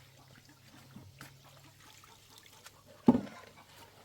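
Quiet background with a faint low hum and a few small ticks, then one sharp, loud knock about three seconds in.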